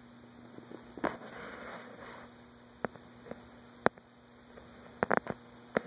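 A steady low electrical hum, with a handful of sharp clicks and knocks scattered through it, the loudest about four seconds in.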